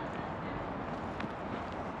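Footsteps in fresh snow over a steady rush of wind noise.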